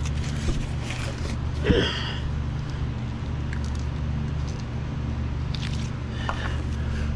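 Steady low motor hum, with a few faint soft squishy handling noises as epoxy is poured and worked onto a fiberglass mat.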